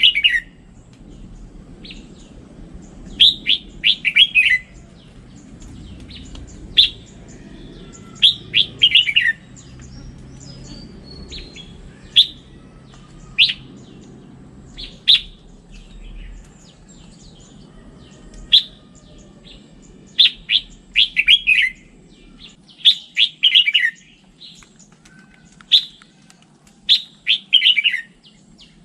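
Red-whiskered bulbul singing: short phrases of quick, bright chirping notes, several of them falling in pitch, repeated every few seconds over a faint low background rumble.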